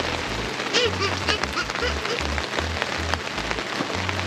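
Heavy rain falling steadily, with many drops ticking on nearby surfaces. A few short, high chirps stand out about a second in.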